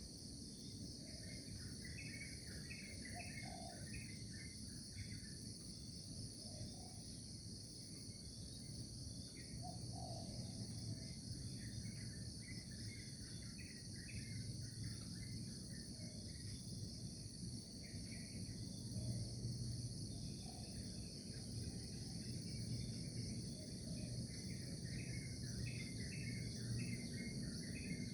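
Morning nature ambience: a steady high-pitched insect chorus, with small birds chirping in quick runs of short notes that come and go in several bouts, over a low background rumble.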